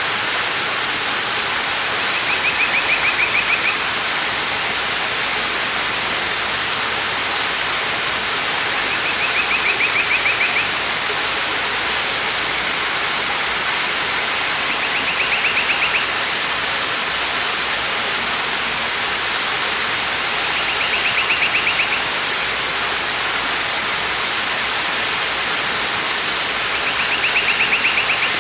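Waterfall rushing steadily, with a bird's short, rapid trill repeated five times, about every six seconds.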